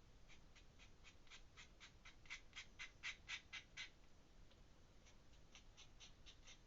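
Faint, quick pen strokes scratching on paper, about four a second, in two runs with a pause of about a second between them: ink hatching or shading on a drawing.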